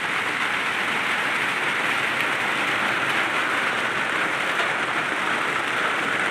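Heavy rain falling with a steady, even hiss.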